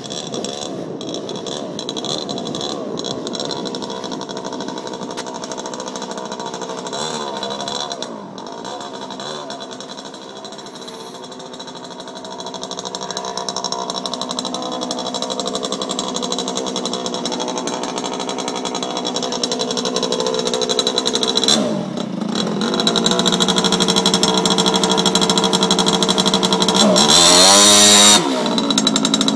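Mini chopper bike's small engine running as it is ridden, its pitch rising and falling with the throttle and growing louder from about halfway. Near the end it revs high briefly, then drops off suddenly.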